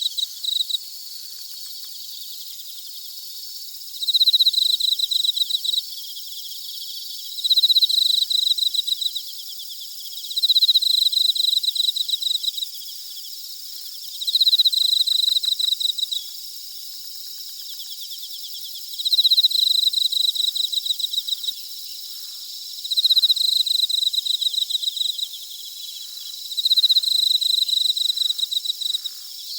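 Night insects singing in a forest: a steady high-pitched chorus, over which one insect repeats a loud, rapidly pulsed call of about two seconds roughly every three and a half seconds.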